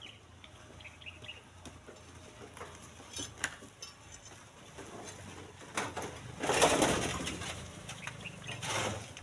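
Split stones being handled and loaded into a truck bed: scattered knocks and clatters, with a louder rush of stone-on-stone noise about six and a half seconds in.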